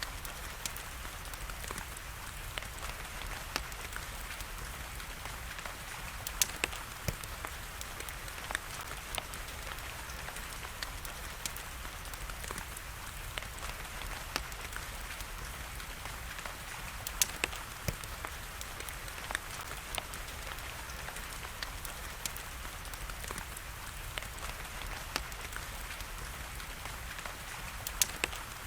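Steady rain hiss and patter mixed with a wood fire crackling: frequent small clicks and a few louder sharp pops.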